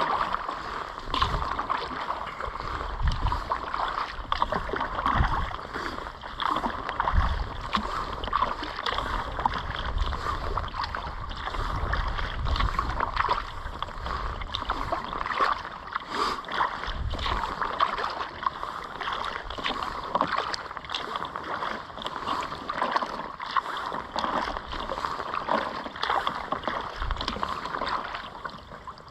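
Kayak paddling: paddle blades dipping and pulling through the water in a steady, continuous splashing and dripping, with occasional low rumbles.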